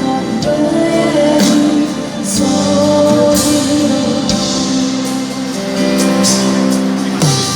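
Live band music with singing: sustained chords under a wavering vocal line, with bright splashy percussion hits recurring every second or two.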